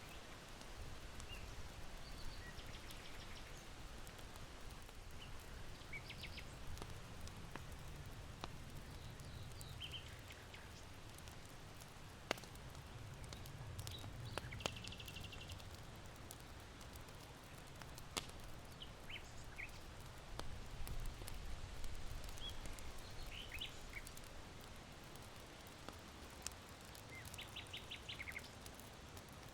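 Charcoal fire in an irori hearth crackling with scattered sharp pops, while small birds chirp and trill now and then over a low, steady rumble of wind.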